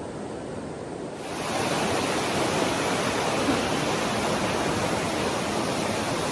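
Steady rush of fast-flowing river water or a waterfall, which turns abruptly louder and brighter about a second in.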